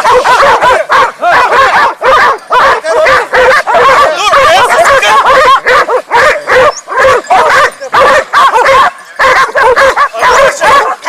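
A pack of boar-hunting hounds barking and yelping without pause, many short overlapping calls, as they bay at a shot wild boar.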